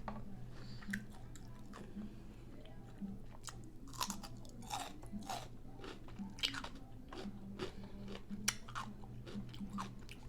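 Close-up chewing and biting of crunchy hard-shell taco boats filled with chorizo: a string of irregular crisp crunches, some sharper than others.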